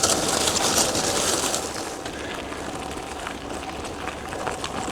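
Gravel bike rolling over a rough trail: tyre noise with many small rattling clicks, louder for the first second or so, and wind on the microphone.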